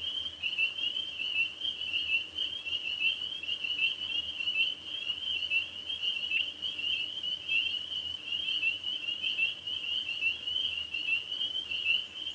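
Night chorus of tree frogs: a dense, continuous high-pitched trilling of many overlapping callers.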